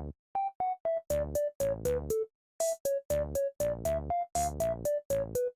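Background music: a bouncy synthesizer tune of short, detached notes over a light bass beat, with brief pauses between phrases.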